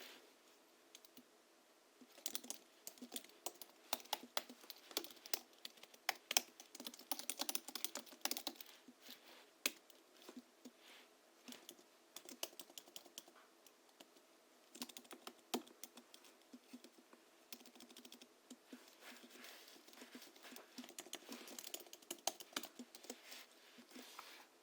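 Typing on a Hansung GHL-5X keyboard, its springs lubricated with Krytox 103 and 107 and fitted with 50 g rubber domes: rapid runs of keystrokes with short pauses, starting about two seconds in.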